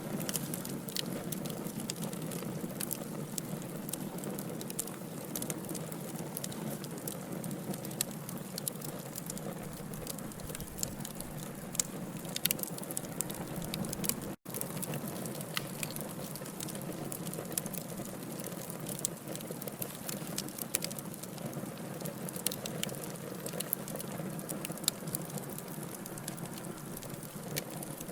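Burning logs in a wood fire, a steady low hiss dotted with frequent sharp crackles and pops. The sound drops out for a split second about halfway through.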